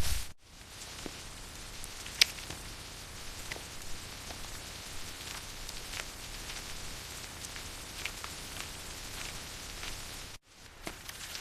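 Steady rain with scattered drops ticking, one sharper drip about two seconds in. The sound cuts out briefly near the end, then resumes.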